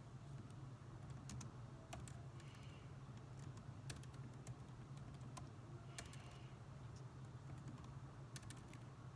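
Faint computer keyboard typing: scattered keystrokes, sometimes a few in quick succession, over a steady low hum and a soft hiss.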